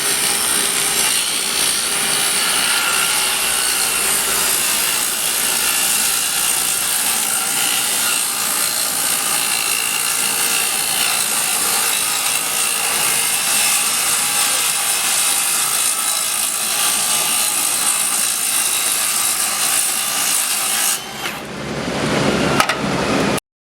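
Handheld circular saw cutting through a wooden board in one long, steady cut of about twenty seconds. The sound dips briefly near the end, swells again and then stops abruptly.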